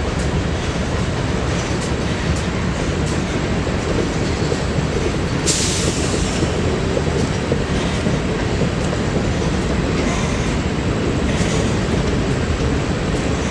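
Freight train rolling past at trackside: a steady rumble of wheels on rail with faint repeated clicks. A brief hiss about five and a half seconds in.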